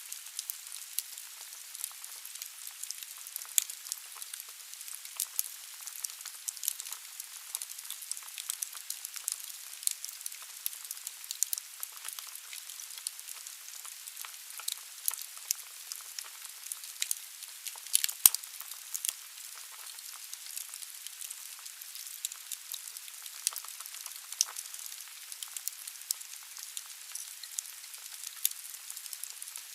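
Wood burning in a fireplace: a steady hiss and hissing of the fire with irregular sharp crackles and pops from the logs, one louder pop about 18 seconds in.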